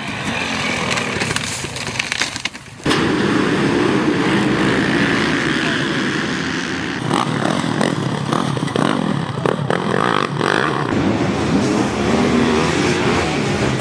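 Dirt bike engines revving and running hard off-road, the pitch rising and falling, with a short drop-out about two and a half seconds in and a few sharp knocks in the middle.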